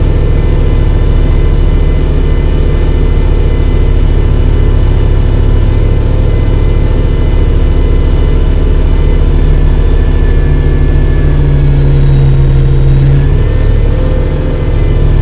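Kubota tractor's diesel engine running steadily at working speed while driving the rear snowblower; the engine note shifts briefly about ten seconds in.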